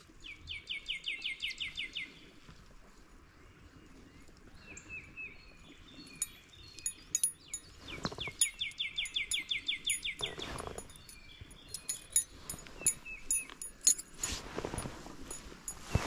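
A songbird singing a fast trill of rapid repeated notes, twice, about eight seconds apart, with a few shorter falling call notes in between.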